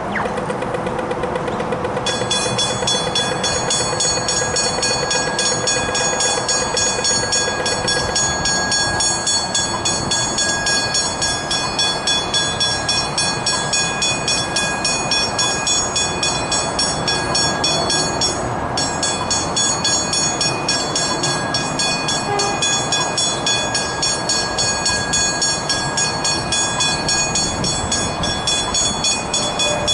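Level crossing warning bells ringing in a steady, rapid rhythm, starting about two seconds in, while a train rumbles through the crossing.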